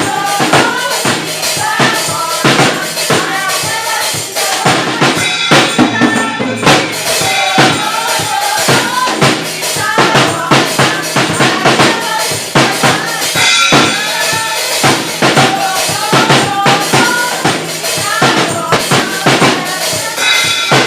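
Live praise music with a drum kit (bass drum, snare and rimshots) keeping a steady beat, a tambourine, and voices singing over it.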